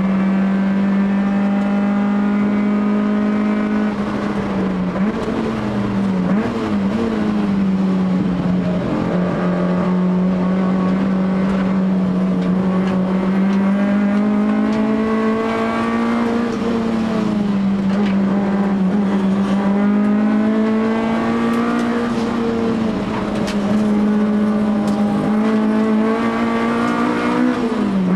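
Honda ZC four-cylinder engine breathing through twin Solex 44 carburettors, run hard at high revs on a race circuit. Its pitch holds high and steady, with short dips and climbs back at shifts or corners: several between about five and nine seconds in, one a little after halfway, and one at the very end.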